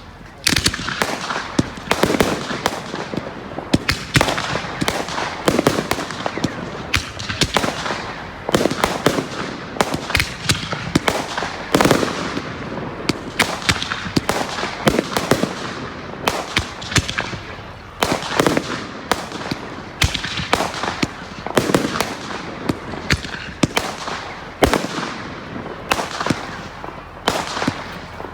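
Fireworks going off in a continuous barrage: frequent sharp bangs and crackles, with rumbling echo between them.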